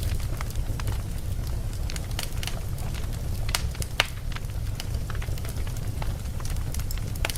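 Campfire burning, with a steady low rumble of flames and irregular sharp crackles and pops from the wood, the loudest pop about four seconds in.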